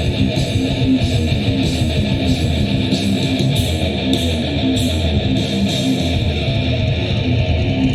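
Live band playing an instrumental passage: strummed guitars over drums keeping a steady beat, with cymbal hits about twice a second.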